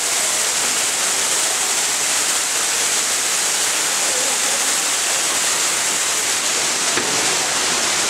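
Artificial waterfall pouring steadily, a heavy flow of water making a constant, even rush.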